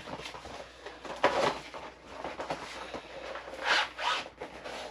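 Packaging being handled and unwrapped, with irregular rustling and crinkling bursts, the loudest a little over a second in and near four seconds in.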